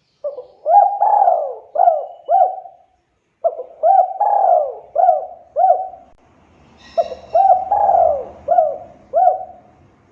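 Spotted dove cooing: three loud phrases of about five or six rolling coo notes each, separated by short pauses. A brief higher-pitched chirp comes in about seven seconds in.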